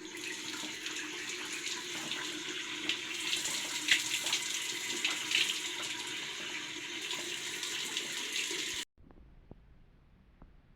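Water running steadily from a tap and splashing, stopping abruptly about nine seconds in.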